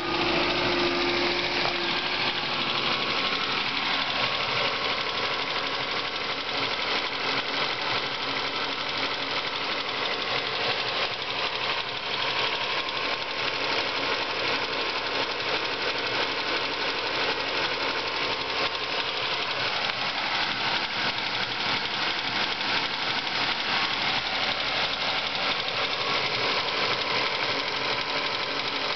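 Ford Focus engine running with a fast, even ticking, which the owner suspects comes from the water pump or a worn bearing.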